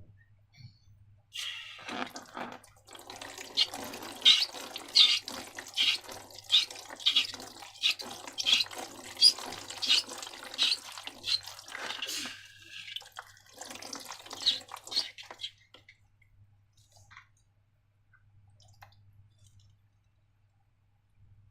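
Sticky slime being squished and worked by hand: a run of wet squelches and small sticky pops, several a second, that stops about 15 seconds in.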